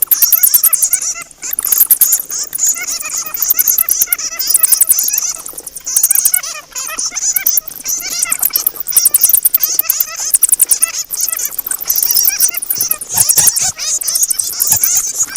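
Bats chattering: a dense, continuous stream of rapid high-pitched chittering and squeaks, with a few brief dips.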